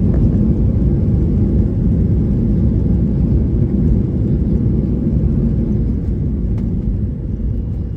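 Steady low rumble inside the cabin of a Boeing 737-800 on its landing, engine and airframe noise easing off a little near the end.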